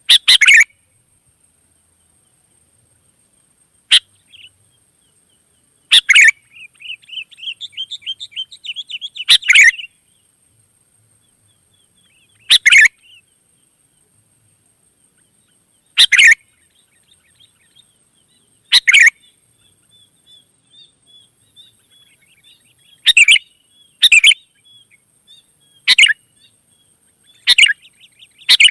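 Sooty-headed bulbuls (kutilang) calling: loud, short, bright phrases every one to four seconds, with softer rapid chattering in between, coming closer together near the end.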